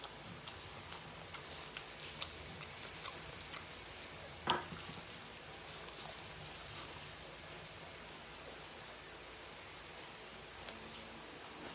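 Mouth sounds of chewing and biting breaded boneless fried chicken: small crunchy crackles and clicks for most of the first eight seconds, one louder burst about four and a half seconds in, then quieter.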